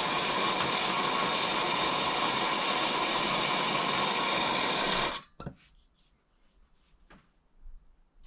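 Gas blowtorch flame burning with a steady hiss, cut off abruptly about five seconds in, followed by a few faint clicks and knocks.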